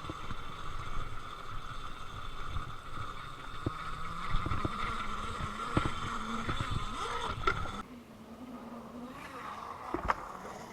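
Happy Run F18 electric dirt bike's motor giving a steady high whine under throttle, with scattered knocks and thumps as it rides over the track. The whine cuts off suddenly about three-quarters through, and a single sharp click follows near the end.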